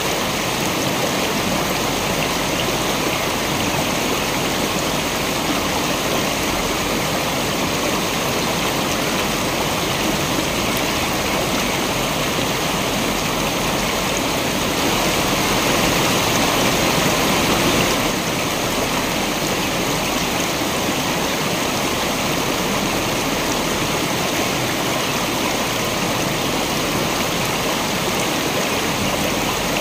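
Waterfall and stream water running steadily, an even rushing noise that swells slightly for a few seconds about halfway through.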